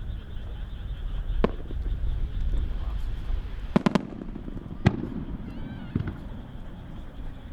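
Japanese aerial firework shells going off one after another over a low, constant rumble: a sharp bang about a second and a half in, a quick burst of three bangs near four seconds, then two more single bangs about a second apart.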